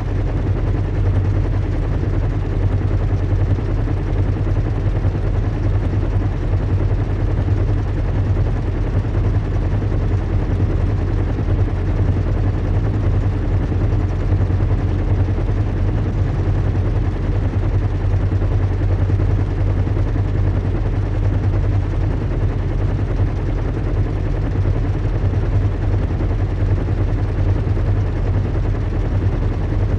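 Recreated ambience of a zeppelin airship in flight: a steady low engine hum and rumble under a constant rushing noise, unchanging throughout.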